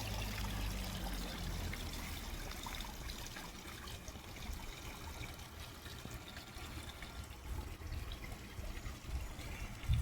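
Water trickling steadily into a garden pond, fed by a pumped hose.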